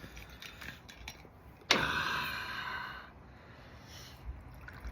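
Whiskey poured from a bottle into a shot glass: a sudden start about two seconds in, then a hissing pour that fades out after about a second.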